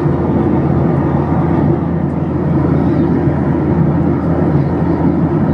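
Steady cabin noise of a Boeing 737-800 in flight: engine and airflow noise as an even low drone, with no breaks or changes.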